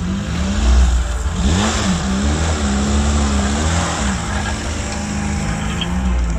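Lada Niva's four-cylinder engine revving up and down again and again as the 4x4 pushes through tall grass and brush off-road, then holding a steadier pitch for the last couple of seconds.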